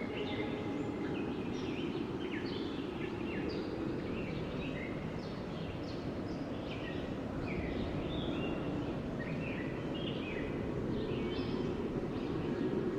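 Steady wind blowing, with small birds chirping short, quick calls throughout.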